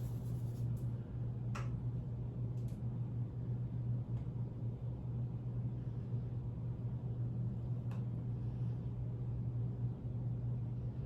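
A steady low hum with a few faint clicks or taps over it.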